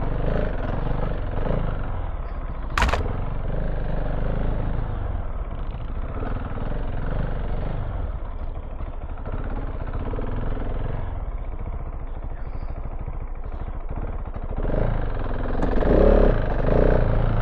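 KTM 690 Enduro R single-cylinder engine, fitted with an open silencer, running under changing throttle while riding off-road. There is a single sharp knock about three seconds in, and the engine gets louder with throttle near the end.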